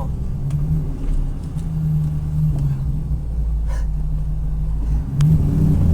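1996 Mustang GT's 4.6-litre V8 running through Flowmaster Super 44 mufflers with a steady low drone, getting louder about five seconds in.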